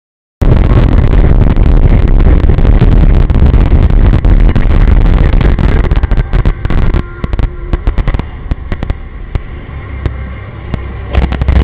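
Dash cam audio of a car on the move: loud, rumbling road and wind noise full of crackles, starting abruptly about half a second in and easing off for a few seconds before swelling again near the end.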